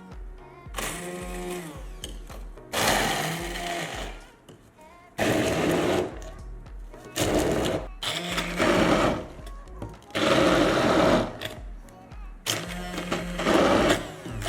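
Small electric kitchen blender run in short pulses of a second or so, about seven times, grinding ingredients for the soup.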